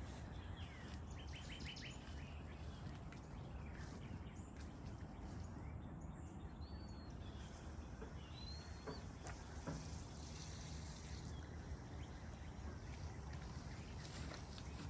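Outdoor ambience: a steady low background hum with a few faint bird chirps scattered through it.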